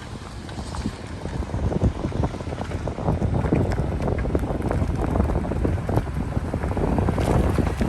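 Wind buffeting the microphone: a low rumble with irregular crackles, getting louder about three seconds in.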